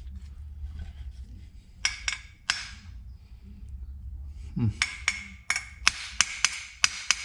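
Hammer striking a steel punch, each blow with a short metallic ring: three taps about two seconds in, then a quicker run of about a dozen taps, roughly four a second, from about five seconds in. The punch is driving a pin through a coil spring that is being difficult.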